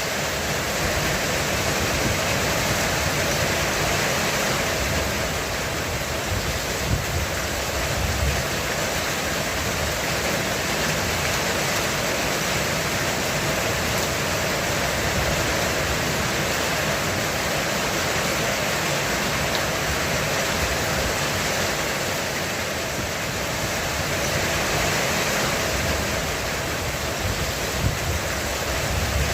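Heavy rain falling steadily on a roof, an even hiss of many drops. Brief low rumbles come through about seven seconds in and again near the end.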